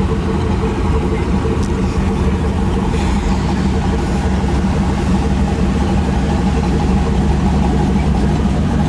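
A vehicle engine idling steadily at close range, with a constant low note and no revving.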